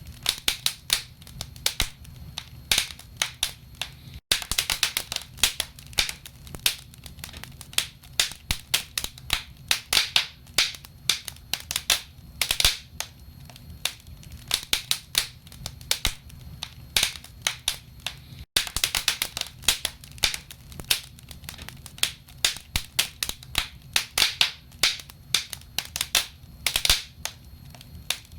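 Burning wood crackling in a fireplace: dense, irregular pops and snaps over a steady low background. The sound cuts out for an instant twice.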